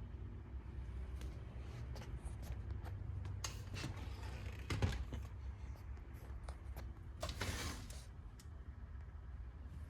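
Scattered light clicks and knocks, with two brief rustling swishes, over a steady low hum: objects being handled.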